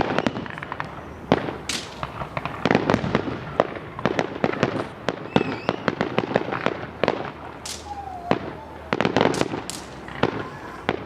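Fireworks going off in rapid, irregular succession: many sharp bangs and crackles overlapping, a few louder ones standing out.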